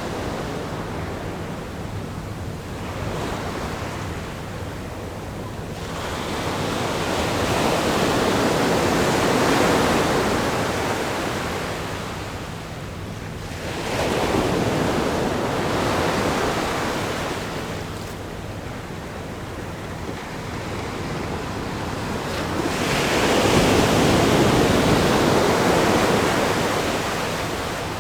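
Ocean waves breaking against a rock groin, the surf rising and falling in three long surges, the last one the loudest.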